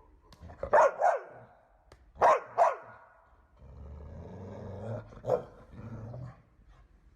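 A dog barking: two quick double barks, then a longer, lower sound broken by one more bark.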